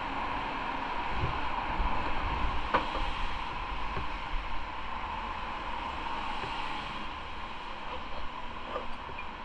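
Motorcycle riding along: steady wind and road noise rushing over the microphone, with heavier low buffeting for a couple of seconds about a second and a half in.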